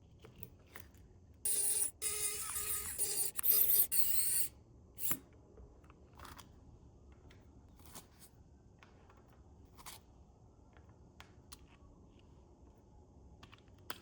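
Small engine-kit parts and tools being handled: scattered light clicks and taps, with a loud, rough scraping noise lasting about three seconds shortly after the start.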